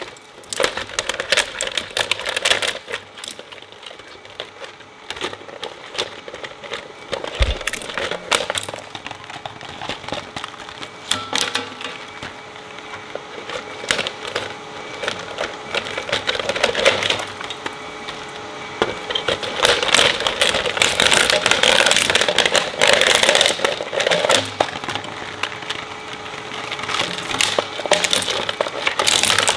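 Industrial shredder crunching hard plastic toys: a dense, irregular run of cracks and snaps as the pieces are chewed up, over a faint steady hum from the machine.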